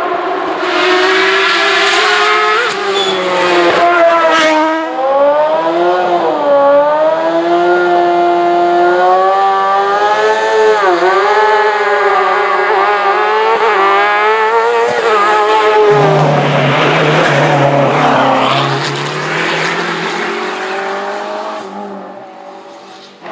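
Hill-climb race car engine revving hard, its pitch rising and dropping repeatedly through gear changes and lifts, with some tire squeal. From about two-thirds in, the sound turns to a lower, steadier engine note, then fades away near the end.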